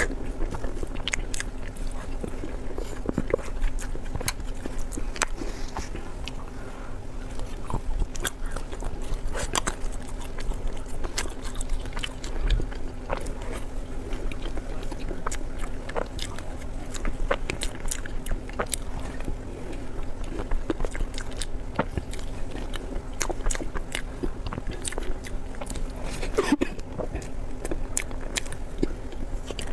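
Close-miked eating: a person biting and chewing food with many irregular wet clicks and smacks, over a steady low hum.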